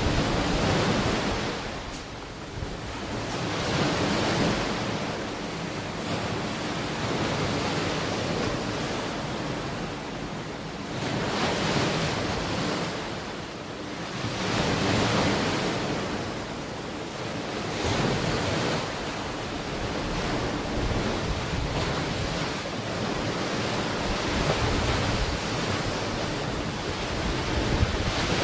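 Ocean waves washing onto a shore. The surf swells and falls away in slow surges every few seconds.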